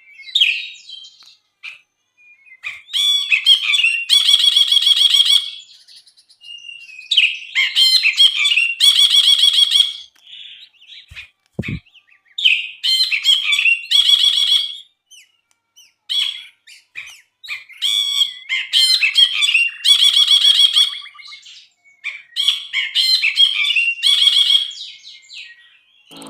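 Brinji (bulbul) singing loudly: a run of repeated phrases of rapid chattering, buzzy notes, coming about every four to five seconds. A brief low thump sounds about midway.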